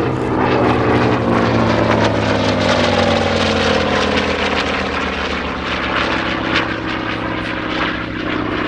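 Hawker Fury's 18-cylinder Bristol Centaurus radial engine and propeller droning loudly in flight. Over the first few seconds a higher part of the engine note glides steadily down in pitch as the aircraft passes by.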